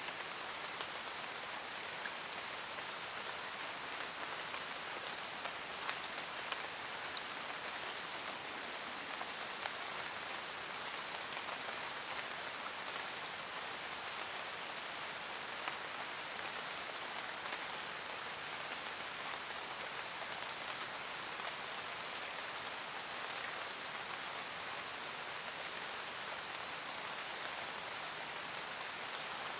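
Steady rain falling in a forest, an even hiss with scattered individual drops ticking on leaves.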